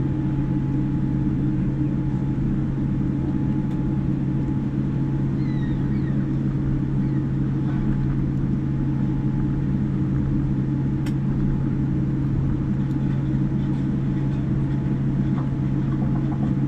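Steady cabin hum inside a Boeing 787-9 on the ground before takeoff: a constant low drone from the engines and air systems, with no change in level.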